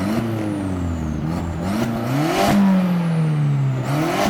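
Volkswagen Jetta's 1.8-litre turbocharged four-cylinder running through a straight-pipe exhaust, revving up three times with its pitch sliding down between the revs.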